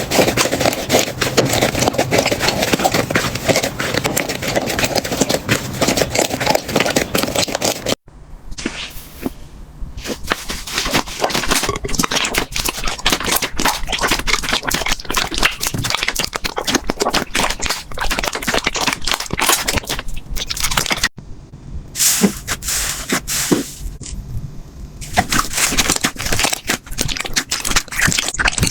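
Slime being squeezed and pressed by hand, giving dense, rapid crackling and popping clicks. The sound breaks off abruptly about 8 and 21 seconds in and resumes with a sparser texture.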